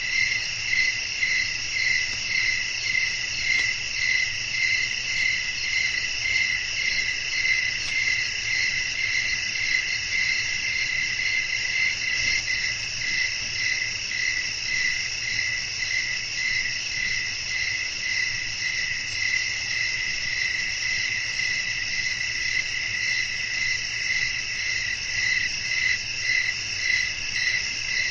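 A chorus of crickets chirping steadily at night: several layered high trills, one of them pulsing in an even, regular beat.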